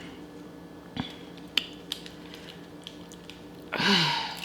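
A few sharp clicks and cracks of a boiled crab's shell being broken apart by hand. Near the end comes a short vocal sound with a falling pitch.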